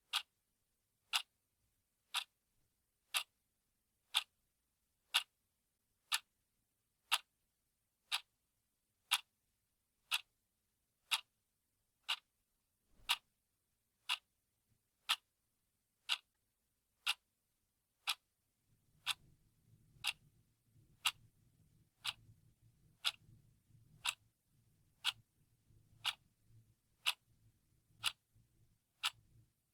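Clock ticking steadily, one sharp tick a second. A faint low hum comes in underneath about two-thirds of the way through.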